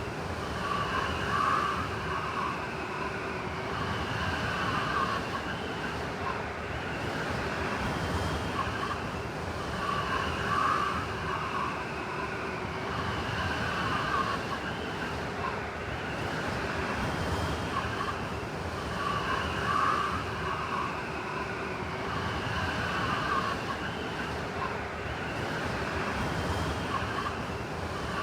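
Blizzard wind howling steadily, with wavering whistling tones that swell and fade every several seconds.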